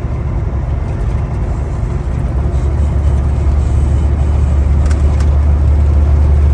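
Steady low drone of a semi truck running down the road, engine and road noise together, growing slightly louder. Two faint clicks about five seconds in.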